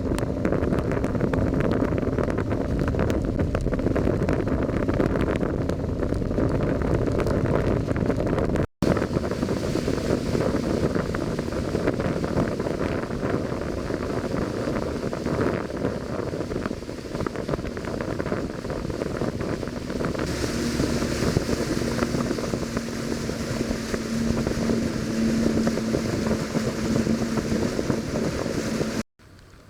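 A boat's outboard motor runs at speed while heavy wind buffets the microphone and water rushes past. A faint steady engine tone sits under the loud wind noise. The sound drops out abruptly for a moment about nine seconds in.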